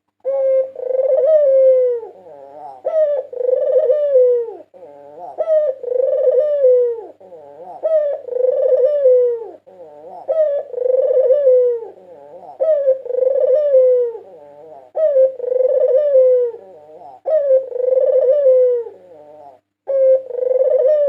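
White Barbary dove (puter putih) cooing over and over, a phrase about every two seconds, each ending in a falling note. A faint steady hum runs underneath.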